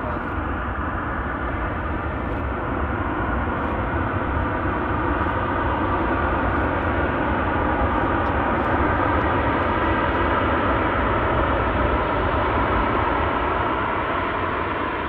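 Jet airliner's engines running, a steady rumble that grows a little louder through the middle.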